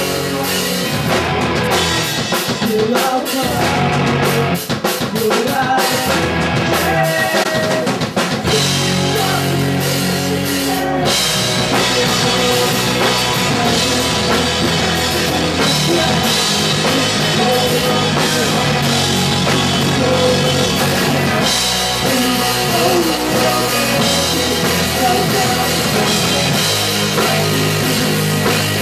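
Punk rock band playing live and loud, with drum kit, distorted guitars and bass. For the first several seconds the band plays in short stop-start hits, then settles into a continuous full-band section.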